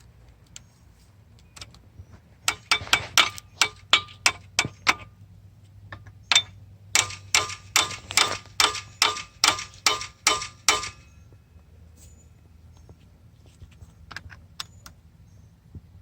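A hammer striking metal in two runs of quick, ringing blows, about three or four a second, with a short pause between them. This is typical of a tool being knocked onto a rounded-off bolt head.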